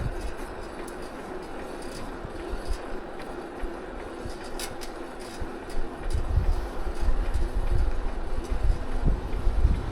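Wind buffeting the microphone over steady rolling noise during a bicycle ride, the buffeting growing heavier about six seconds in.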